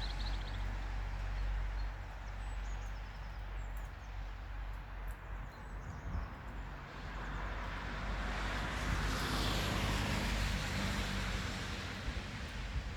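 Outdoor ambience: a steady low rumble with a swell of noise that rises and fades about eight to eleven seconds in, and a few faint bird chirps in the first few seconds.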